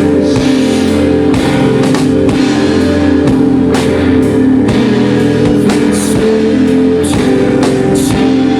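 Rock band playing live and loud: electric guitars holding sustained chords over a drum kit with regular cymbal crashes, recorded raw on a camcorder.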